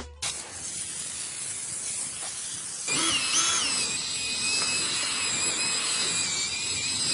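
Steady hiss of a high-pressure jet, louder from about three seconds in, with thin high whistling tones wavering above it.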